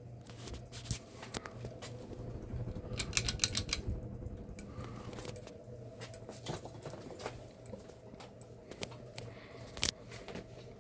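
Steady low motor hum, with scattered sharp clicks and light rattles on top and a quick run of jangling metallic clicks about three seconds in.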